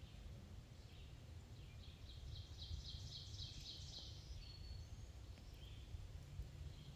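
A songbird singing a quick series of repeated high notes for about two seconds in the middle, followed by a short high whistle, with faint chirps from other birds around it. A low, steady rumble runs underneath.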